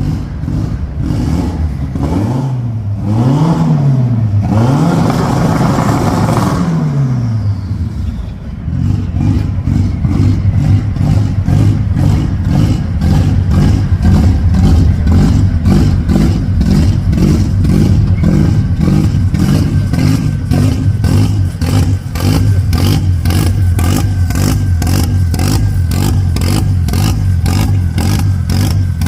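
Lancia Beta engine revved in two quick blips a few seconds in, the pitch sliding back down, then running steadily at a raised idle with an even, rhythmic pulsing.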